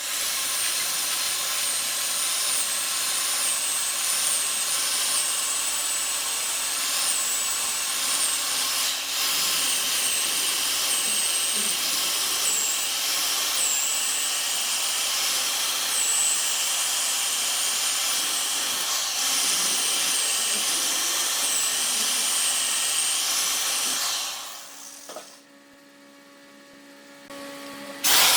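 A power woodworking tool running steadily and cutting wood, with a wavering high whine over a noisy hiss. It drops away sharply near the end, leaving a quieter hum, then comes back loud.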